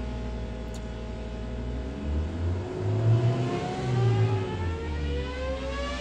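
Engine running and being revved, its pitch rising and falling several times.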